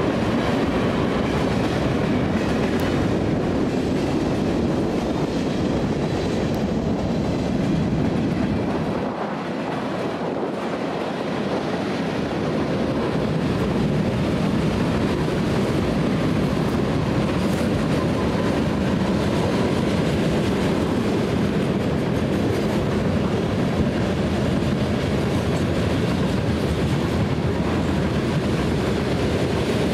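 Norfolk Southern freight train's cars rolling past on the rails: a steady, loud rumble of steel wheels and rattling tank cars and covered hoppers. It eases a little about nine seconds in, then picks up again.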